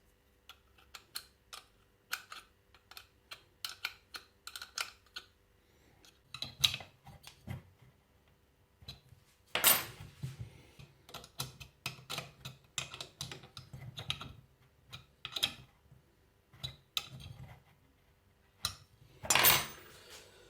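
Small metal fittings and hand tools clicking and clinking while a model jet turbine's fuel-line connectors are worked on, with two louder clattering handling noises, about halfway and near the end.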